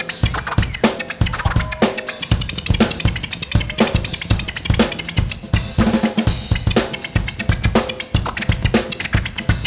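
Drum kit playing a busy, fast groove, with kick drum, snare and rimshots, and cymbals sounding throughout, as part of a jazz-funk band's music.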